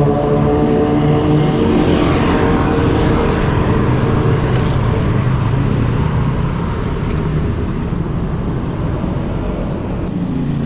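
Road traffic heard from a bicycle: a nearby motor vehicle's engine rising slightly in pitch over the first few seconds, then steady road noise.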